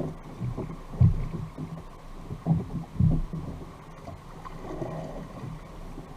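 Fishing kayak on the water: irregular low thuds and knocks against the hull, the strongest about a second in and about three seconds in, over a low rumble of moving water.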